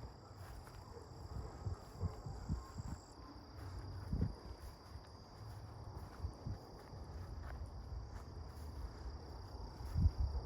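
Insects trilling steadily at a high pitch, with a second, higher insect voice dropping out about a third of the way in. Soft low thumps of footsteps come at irregular intervals, with the loudest one near the end.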